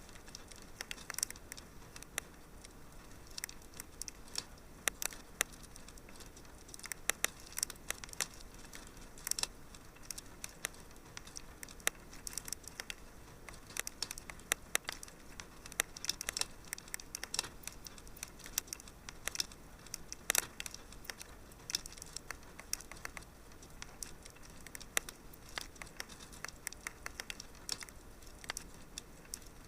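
Fireplace fire crackling: irregular sharp pops and snaps, several a second at times, over a soft steady hiss.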